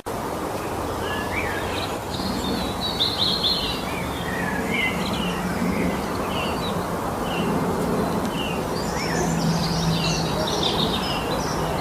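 Several forest songbirds singing: many short high chirps and brief trills, busiest near the end, over a steady background rush.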